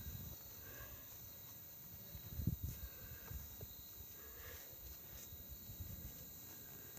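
Faint outdoor background with a steady high-pitched buzz and a few soft low thumps, the loudest about two and a half seconds in.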